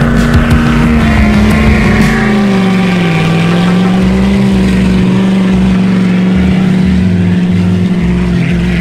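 Vehicle engine held at high revs, a steady drone whose pitch eases down slightly about two and a half seconds in and then holds.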